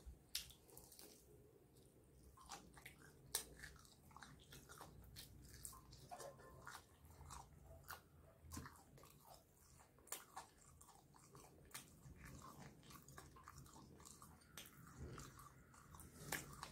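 A person chewing and biting fried chicken, with soft wet mouth clicks and occasional crisp crunches; one sharper click comes about three seconds in.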